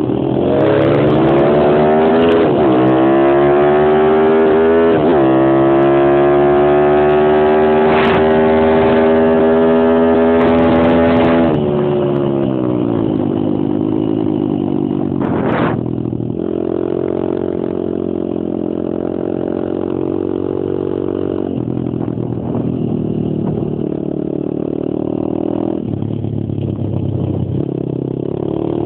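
Stomp Superstomp X140 pit bike's four-stroke single-cylinder engine accelerating hard and held at high revs, then dropping back about halfway through to lower, steadier revs with small throttle changes, and picking up again near the end. A single sharp knock is heard a little after halfway.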